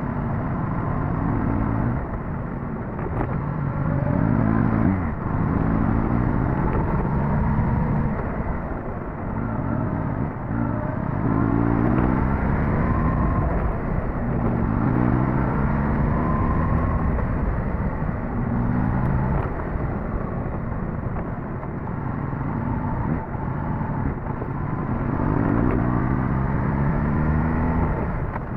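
Suzuki GSX-S1000GT's inline-four engine running under way, its note rising and falling again and again as the throttle opens and closes, over a low rumble of wind and road noise.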